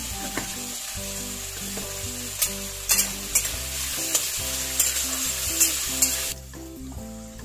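Potato cubes frying in mustard oil in a metal kadai, with a steady sizzle, while a metal spatula stirs them and clinks and scrapes against the pan several times. The sizzle drops away about six seconds in.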